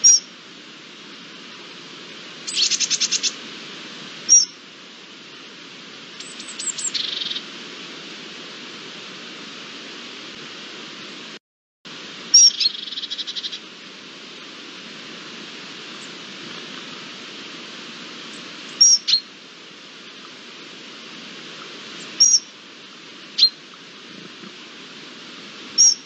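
Wild birds calling over a steady outdoor hiss: a short, high two-note call repeats about six times, and three brief rapid trills come in between. The sound drops out for a moment about halfway.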